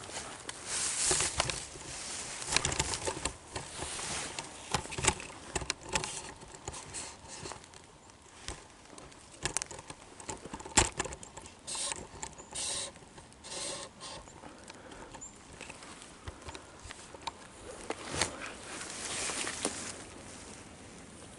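Irregular crunching and rustling in dry leaf litter on a forest floor, as of footsteps or movement through leaves, with scattered sharp crackles.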